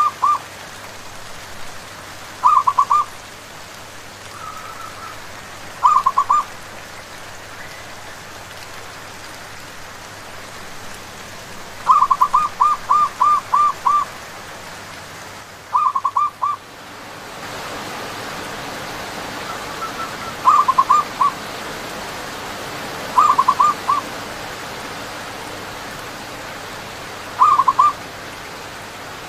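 Zebra dove (perkutut) cooing in short quick bursts of three to seven notes every few seconds, with one longer run of notes around the middle, over the steady hiss of rain. The rain drops out briefly just past the middle and returns louder.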